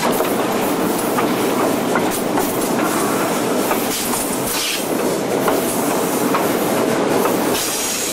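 Train's wheels running on the rails, a steady rumble with scattered faint clicks from the track, heard from aboard the moving train.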